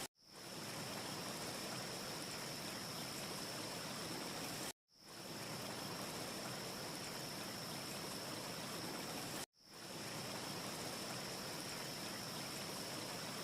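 A looped wind ambience track: a steady rushing hiss with a thin, constant high whistle in it. It cuts to silence and fades back in about every five seconds, where the short loop restarts. No fire crackle stands out.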